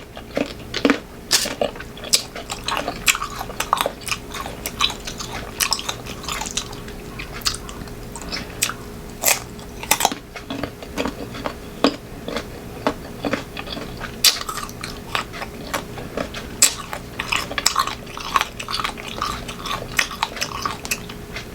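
Close-miked biting and chewing of crunchy unripe green mango, with many sharp, irregular crunches. A faint steady hum lies underneath.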